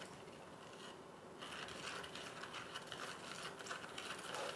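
Spoon stirring baking soda into boric acid water in a slime palette: faint scraping and clicking against the container, busier after about a second and a half.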